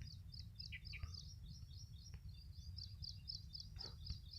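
Faint, rapid high-pitched chirping in the background, about four to five chirps a second and steady throughout, over a low steady hum, with a few faint ticks.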